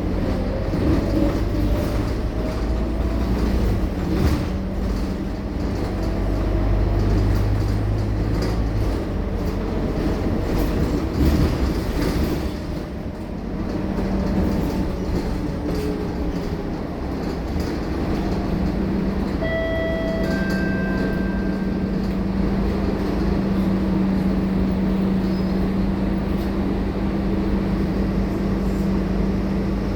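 Scania K230UB bus's five-cylinder diesel engine running with the rumble and rattle of the moving bus. A strong low engine note for the first nine seconds dies away, and a steadier hum settles in about eighteen seconds in. A few brief beeping tones sound about twenty seconds in.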